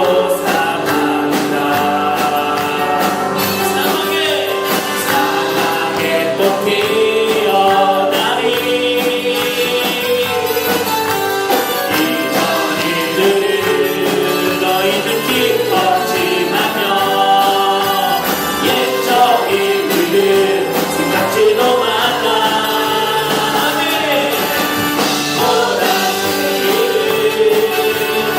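Gospel worship music: a group of voices singing a praise song with band accompaniment and a tambourine-like jingle.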